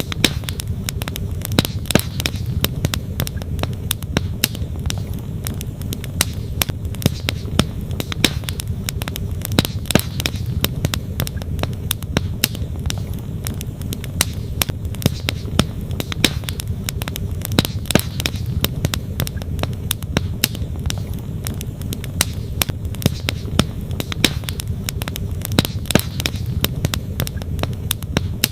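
Wood campfire crackling, with frequent sharp pops and snaps of burning logs at uneven intervals, over the steady low rush of a running creek.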